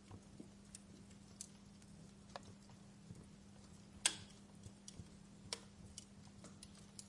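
Wood fire crackling in a fireplace: irregular small snaps and pops, with one louder pop about four seconds in, over a faint steady hum.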